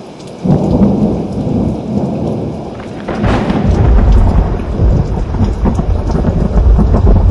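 Thunderstorm: steady rain with thunder that breaks in suddenly about half a second in, then swells into a deep, sustained rumble from about three seconds.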